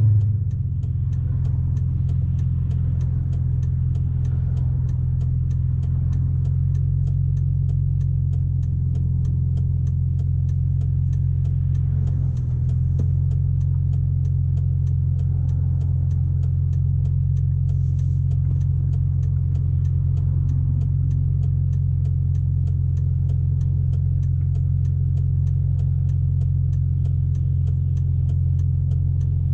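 S54 3.2-litre inline-six in a BMW E46 wagon idling steadily, heard from inside the cabin while the car sits at a stop light.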